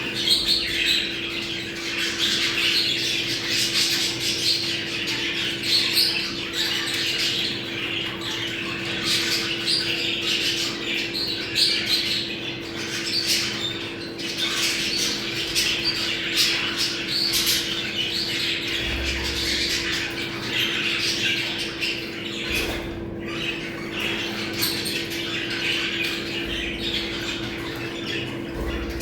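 A flock of budgerigars chattering and warbling without a break, a dense mix of squawks, clicks and short chirps: their mating-season chatter. A steady low hum runs underneath.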